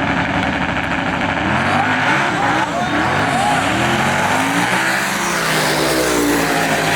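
Drag-racing cars at full throttle on the strip: a loud, continuous engine sound whose pitch climbs and drops again and again as the engines shift gears, with more than one engine heard at once.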